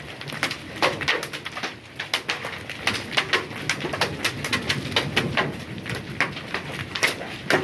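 Hailstones striking a hard surface: irregular sharp clicks, several a second, over a low steady background.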